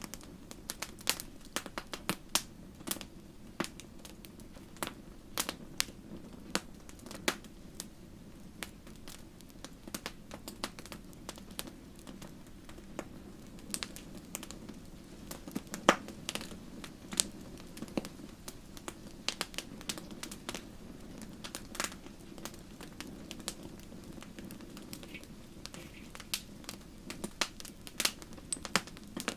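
Wood fire in a fireplace crackling, with irregular sharp pops a few times a second over a steady low rush of flame; one louder pop about halfway through.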